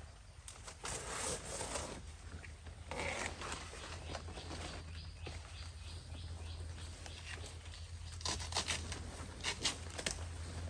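Camping gear being handled, with bursts of rustling and flapping. There is a run of light clicks in the middle, over a steady low hum.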